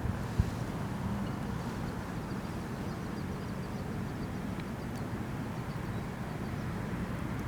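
Steady low wind rumble on the microphone over an outdoor wood fire, with a few faint crackles. One sharp pop comes about half a second in.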